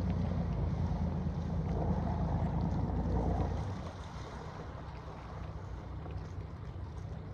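Inboard engine of a river cruiser running close by, a low, steady rumble that drops away about three and a half seconds in, leaving a fainter hum.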